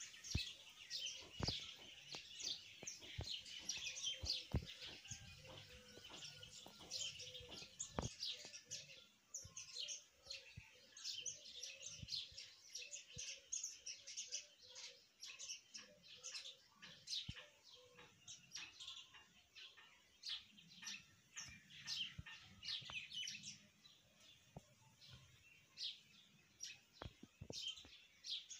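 Birds chirping in quick, high-pitched calls, dense and continuous, with a lower call repeated about twice a second through the middle stretch and a few sharp clicks scattered through.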